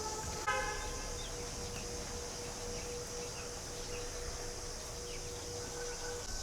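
Outdoor rural ambience: a steady high insect drone with scattered bird chirps, and a long, steady held tone that starts suddenly about half a second in and stops just before the end.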